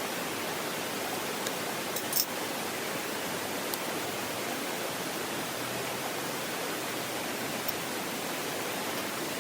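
Steady rushing of stream water, broken by a few sharp crackles, the loudest about two seconds in.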